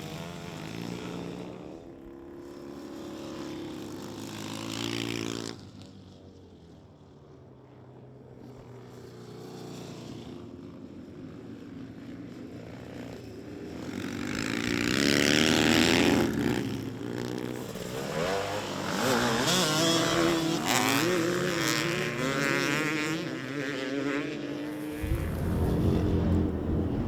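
Vintage British twin-cylinder motorcycles running on a dirt flat track, engines revving up and down as they pass one after another. The loudest pass comes a little past halfway, and the sound changes abruptly near the end.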